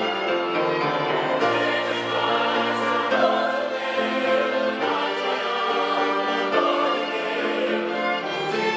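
Church choir singing with string accompaniment: sustained, overlapping held notes.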